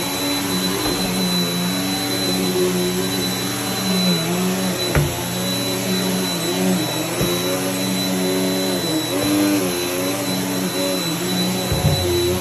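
Vacuum cleaner running steadily on the floor, its motor pitch wavering now and then as it is pushed and the load changes, with a steady high whine over it. A few brief knocks: one about five seconds in, one about seven seconds in and one near the end.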